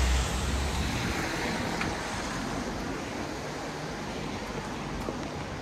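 Traffic on a rain-wet street: a passing vehicle's low rumble and tyre hiss fading away in the first second, leaving a steady hiss of wet-road traffic.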